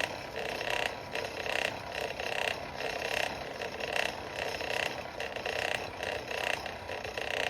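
Forge fire under its air blast while a chain link heats: a rough, steady rushing of air and flame that pulses unevenly.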